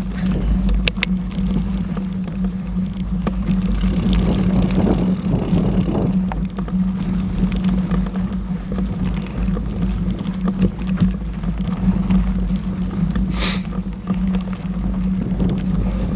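Mountain bike on a forest trail: a steady rumble with scattered clicks and rattles from the bike over the ground.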